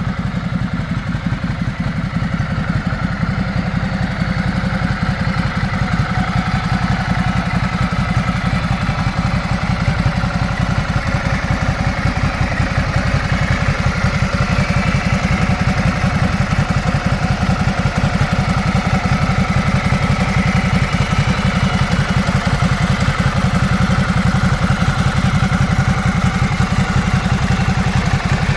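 Motorcycle engine idling steadily, a rapid even run of firing pulses.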